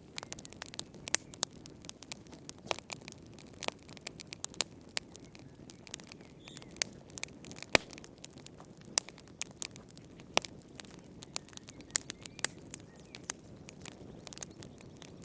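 Wood fire in a fireplace crackling: irregular sharp pops and snaps, a few louder than the rest, over a soft low hiss of burning.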